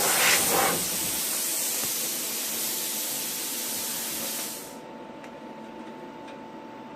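Plasma cutter hissing loudly with its rush of air, which cuts off suddenly about four and a half seconds in, leaving a faint steady hum.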